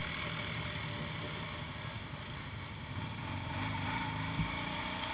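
ATV engine running steadily, getting a little louder from about three seconds in, with a light knock near the end.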